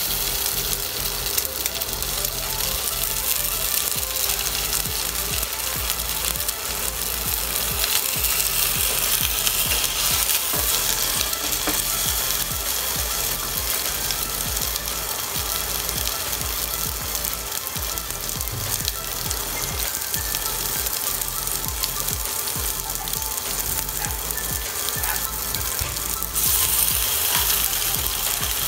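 Cubes of luncheon meat and tofu frying in oil in a cast-iron skillet: a steady sizzle that grows louder near the end.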